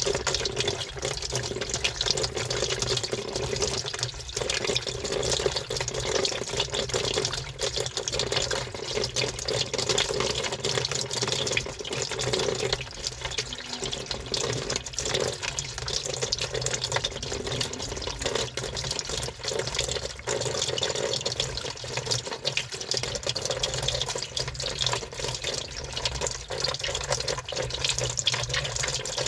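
Water running and sloshing inside a washing machine drum, heard from a camera inside the drum, with a steady low hum under it.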